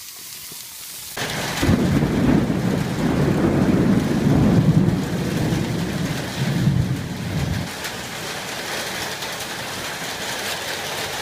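Thunder rumbling for about six seconds during a rainstorm, starting suddenly about a second in, then fading to steady rain falling.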